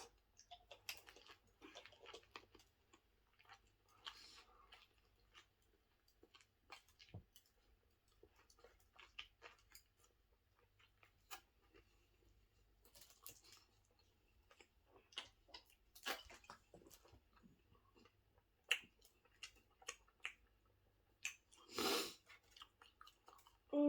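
Close-up chewing of a Subway footlong sandwich with somewhat tough bread: soft, irregular mouth clicks and crunches. A short, louder rush of noise comes near the end.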